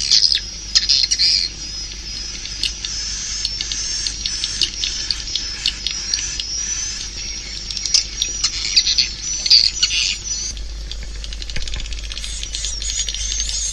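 A flock of swiftlets twittering: dense, rapid high-pitched chirps and clicks overlapping without a break. It is the kind of swiftlet-call recording played in swiftlet houses to lure the birds in to roost.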